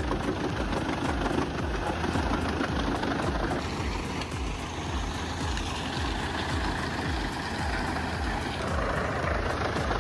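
Heavy diesel machinery running steadily: a throbbing engine rumble under a dense mechanical noise. The texture shifts a little about four seconds in and again near the end.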